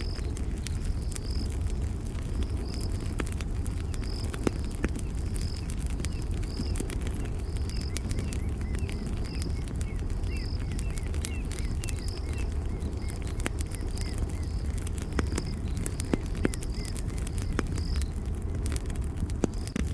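Campfire burning with a steady low rumble and frequent sharp crackles and pops. A short high chirp repeats about once a second over the fire, with a few fainter, lower chirps in the middle.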